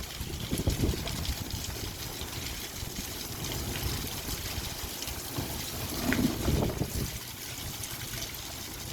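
Light rain falling: a steady patter of fine drops with water trickling and dribbling. Low rumbling swells come about a second in and again around six seconds in.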